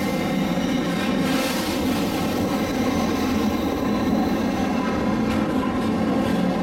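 Steam-hauled heritage train running steadily along the track, a continuous even noise with no breaks.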